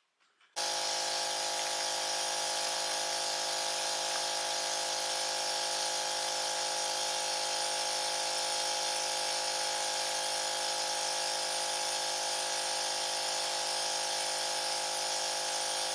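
Nebulizer compressor running with a steady electric buzz, starting abruptly about half a second in and holding at one level; it is driving a breathing treatment for a child's wheezing.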